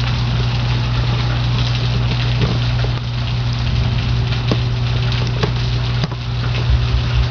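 Steady hiss of rain with a constant low hum underneath and scattered light clicks.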